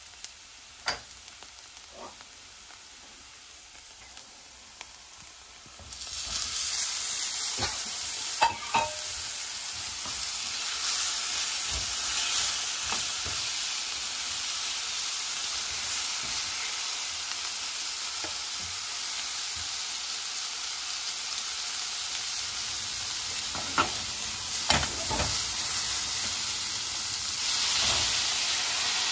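Onions and spices frying quietly in a black steel pan, with a few light spoon taps. About six seconds in, pieces of chicken tikka go into the pan and a loud, steady sizzle starts, with the spoon now and then knocking and scraping against the pan as it is stirred.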